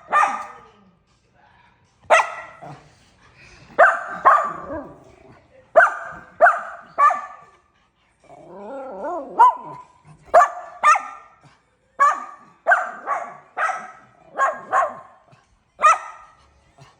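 Miniature schnauzer puppy barking again and again, short sharp barks in clusters of two or three with brief pauses between, and a wavering cry about halfway through.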